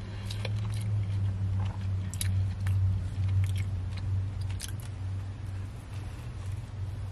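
Close-up chewing and lip-smacking, with scattered short mouth clicks, over a steady low hum inside a car.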